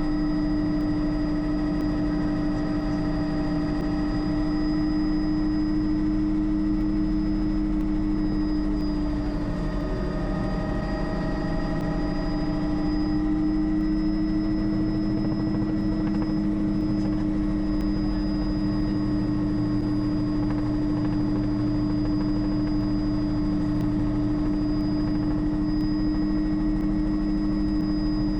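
Bell 206 JetRanger helicopter in flight: a steady drone of rotor and turboshaft engine with a thin high turbine whine above it. The pitch wavers slightly about ten seconds in.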